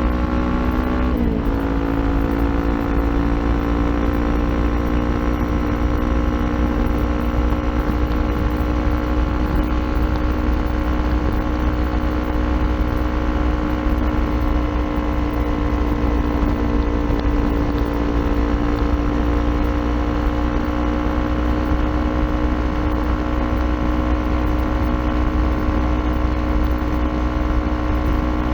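Kawasaki Ninja 400 parallel-twin engine running through an Akrapovic aftermarket exhaust, with a brief dip in engine pitch about a second in, then steady revs that creep slowly upward while riding, over a steady low wind rumble.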